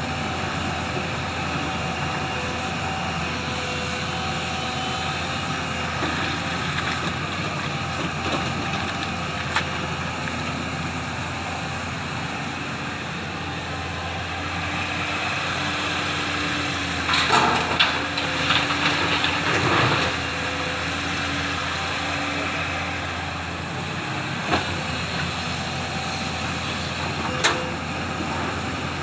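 Diesel engine of a JCB excavator running steadily, with occasional sharp metal knocks and a burst of loud clattering about two-thirds of the way through.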